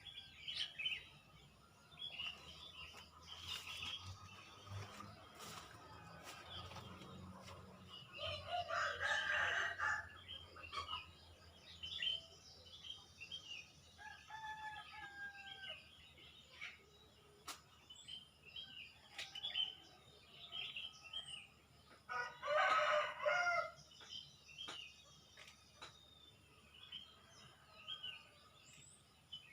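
A rooster crows twice, each crow lasting about two seconds, over the steady chirping of many small birds.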